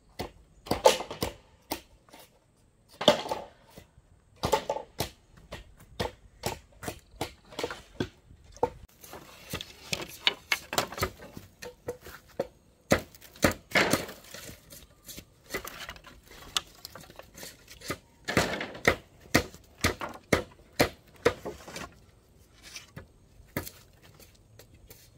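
Irregular sharp knocks and clacks of hard objects striking, dozens of them with short pauses between, some louder than others.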